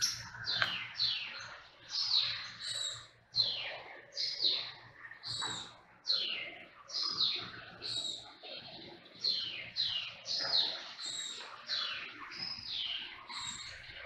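Birds chirping: a steady stream of short, high calls that slide downward in pitch, about two a second, over a faint low hum.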